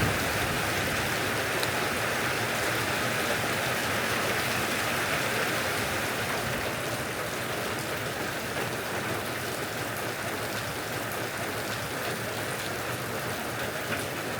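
Heavy rain from a storm falling steadily and evenly, easing slightly toward the end.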